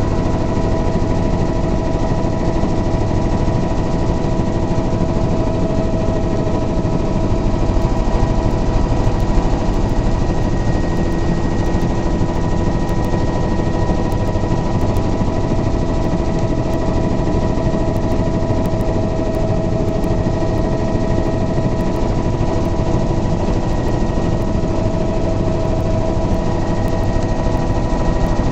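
Helicopter in flight: the rotor's rapid low thudding under a steady turbine and gearbox whine, unchanging throughout.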